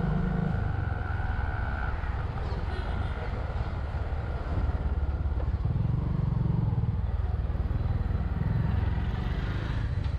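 Bajaj Vikrant V15 motorcycle engine running, with a steady low rumble that grows louder for a few seconds around the middle.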